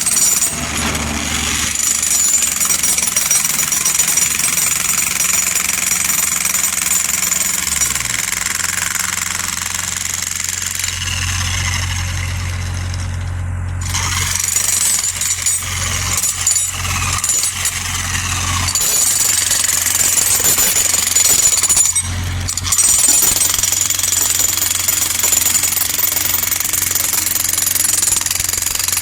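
Mini excavator at work: its engine running in a low drone that shifts pitch and grows louder under load for several seconds in the middle, over a continuous high-pitched mechanical clatter.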